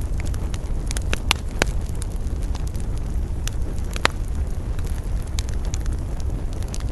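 Wood campfire crackling, with sharp irregular pops, the loudest about four seconds in, over a steady low rumble of wind.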